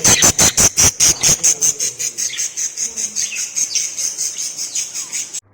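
Small pet parrots chirping in a rapid, even series of high-pitched calls, several a second, that slow slightly and then cut off suddenly near the end.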